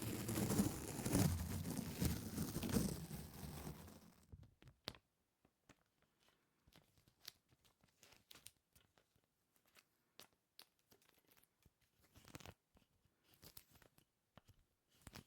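Close-miked sticky peeling sounds: about four seconds of dense crackling and tearing that stops abruptly. After that come only scattered faint sticky clicks and pops.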